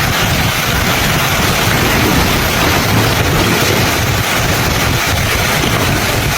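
Strong storm wind blowing steadily and buffeting the microphone.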